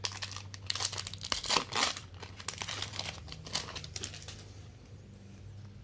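Trading card pack wrapper being torn open and crinkled, densest in the first two seconds, then trailing off into sparse crackles.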